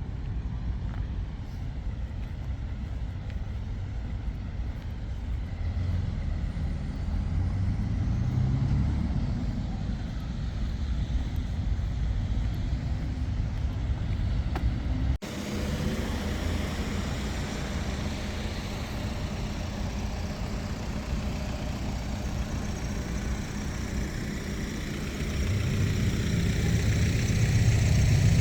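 Road vehicle noise: a steady low engine and tyre rumble that swells at times, broken by an abrupt cut about halfway through.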